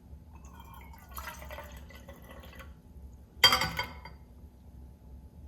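Water splashing and trickling in a drinking glass, then a single sharp clink of the glass about three and a half seconds in.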